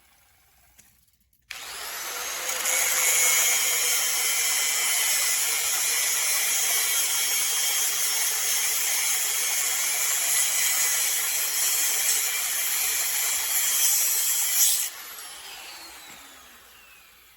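An electric power tool starts suddenly about a second and a half in and runs steadily for about thirteen seconds. It then cuts off, and its motor whines down as it spins to a stop.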